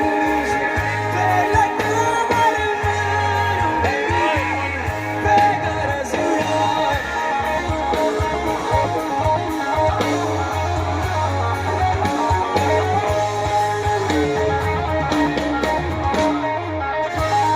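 Live rock band music: guitars playing bending melodic lines over a steady, sustained bass.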